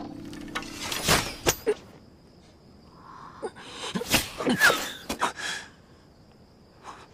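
A few sudden thuds and rustles, then a cluster of short gasps and grunts from a person.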